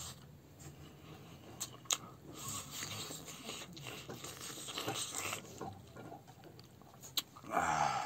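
A person chewing a mouthful of rice with wet mouth smacks and a few sharp clicks, while fingers scrape rice together on a wooden plate. A short vocal sound near the end is the loudest part.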